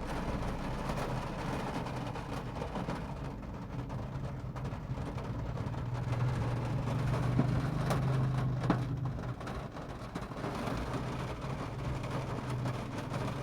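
Rain falling, an even hiss with a few sharp drip ticks, over a low steady drone that swells and fades midway.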